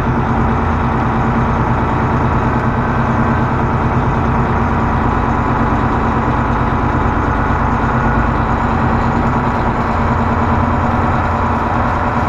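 Semi-truck's diesel engine running steadily at low speed.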